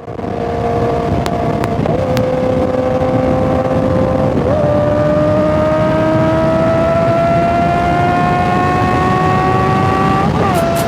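Honda CB650R's inline-four engine accelerating gently on the road. Its pitch climbs slowly and dips briefly at each upshift, about two seconds and four and a half seconds in.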